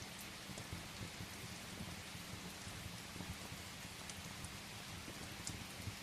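Steady rain hissing, with a few small sharp crackles from burning firewood in a fireplace.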